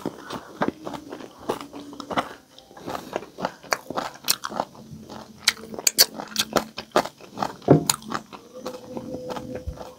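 Close-miked chewing and crunching of crispy pata, deep-fried pork knuckle, with many sharp crackles as the crisp skin breaks between the teeth.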